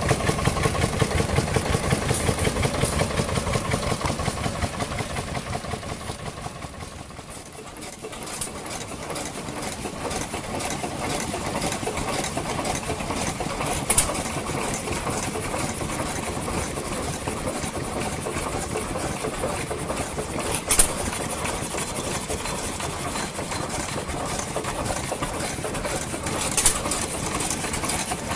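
Vintage engine running with an even, pulsing beat. It fades away about six to eight seconds in, and an engine then runs steadily and more quietly, with a few sharp clicks.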